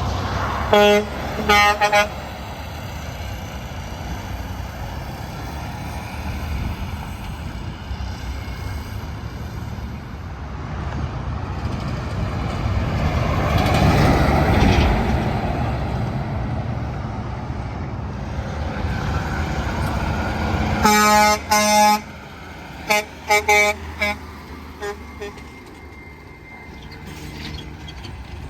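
Semi-truck air horn: two short blasts about a second in, then a longer blast and several quick toots later on. Highway traffic passes in between, loudest about midway.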